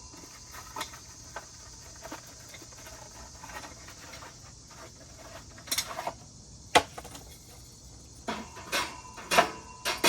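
Square briquette tiles being set into the grill's metal briquette rack: scattered light clicks and knocks, two sharper clinks about two-thirds of the way through, then a quick run of ringing clinks near the end.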